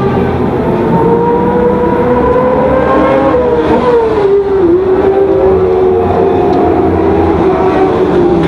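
Suzuki GSX-R600's inline-four engine running at high revs under the rider. Its pitch climbs slowly for about three seconds, drops with a brief dip around four and a half seconds in, holds steady, then falls again near the end.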